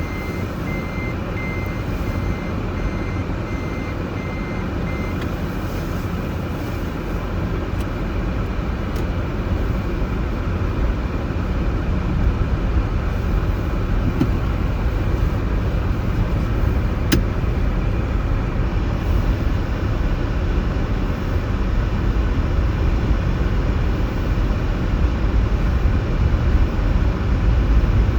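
Steady low street rumble of traffic that grows louder over time. For the first five seconds an electronic beep repeats about twice a second, like a vehicle's reversing alarm.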